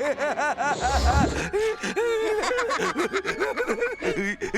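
Cartoon characters laughing in quick, repeated ha-ha notes: a higher voice first, then a lower voice, with a short low rumble about a second in.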